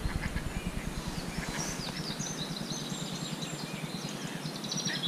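Small songbirds chirping and trilling in the background over a steady outdoor hiss, the calls coming more often after the first second or so.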